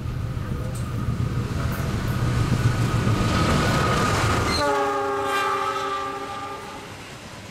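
Diesel-electric locomotive hauling a passenger train approaches and passes close by, its engine and wheels rumbling louder and louder. About four and a half seconds in, the heavy rumble drops away and a steady horn chord sounds for about two seconds as the coaches roll past.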